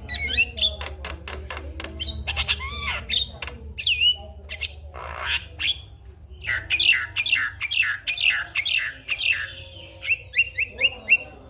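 Javan myna (jalak kebo) singing: a fast, busy run of harsh squawks, clicks and short whistled notes, some sliding down in pitch, with brief pauses between phrases.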